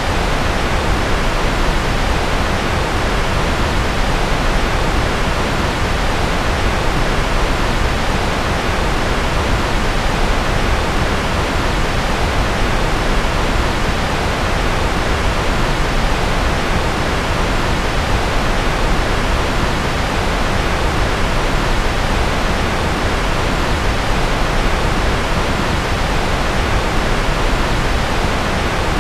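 Steady white-noise track: an even, unbroken hiss that never changes, fuller in the low end and softer in the highs.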